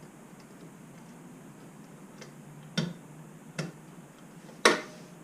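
Three sharp clicks about a second apart, the last the loudest with a brief ring: retaining clips being pried open and snapped onto a motorcycle's rear support brackets.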